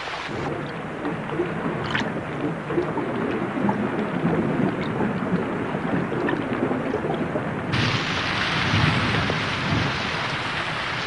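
Heavy rain pouring onto open river water, a steady hiss with low rolling rumbles of thunder underneath. The sharp upper hiss of the rain dulls about half a second in and comes back suddenly about three-quarters of the way through.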